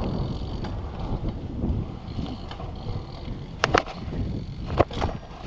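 Skateboard wheels rolling on pavement, with wind on the microphone. Sharp clacks of the board come about three and a half seconds in and again near five seconds, during a trick attempt that does not come off.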